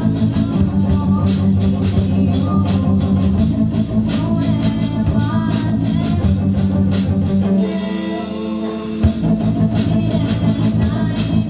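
Live rock band playing: guitar, bass and drum kit with a steady beat. Past the middle the bass and drums drop out for about a second while the guitar rings on, then a single hit brings the full band back in.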